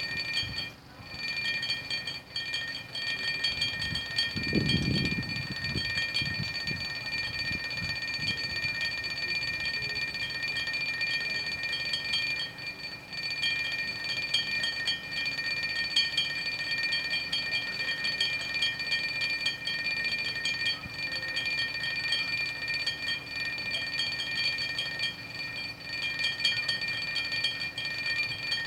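Drinking glasses rattling and clinking against each other in a rapid, continuous chatter with a steady ringing, set off by the vibration of a running washing machine. There is a brief low rumble about five seconds in.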